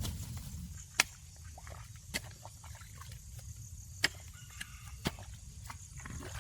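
Five sharp knocks or cracks at uneven intervals, about one a second, over a low steady rumble; the loudest comes about a second in.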